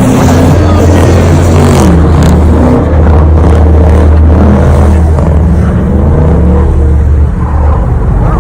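Car engine revving over and over, its pitch rising and falling repeatedly above a steady low drone.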